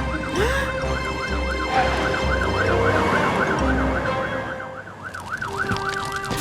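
Cartoon fire truck siren wailing rapidly up and down, about three cycles a second. Underneath it, racing trucks' engines brum in low pulses that die away about two thirds of the way through.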